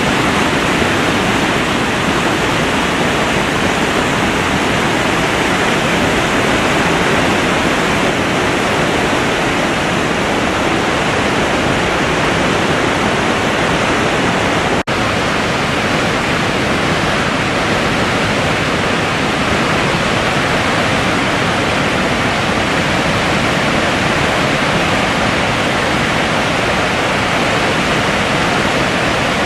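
Steady, loud rush of a powerful river waterfall, with water pouring over a horseshoe-shaped fall. There is one momentary break about halfway through.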